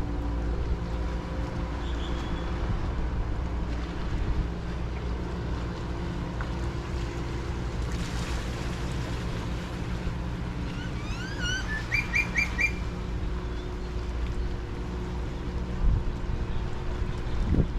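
A steady low hum from a boat engine under wind rumble on the microphone. About two-thirds of the way through a bird calls briefly: a run of quick rising chirps, then four fast repeated notes.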